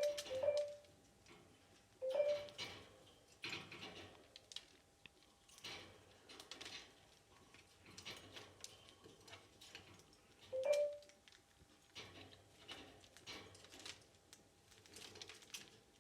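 A budgie bathing in shallow water, splashing and fluttering in irregular bursts, with a few short squeaks.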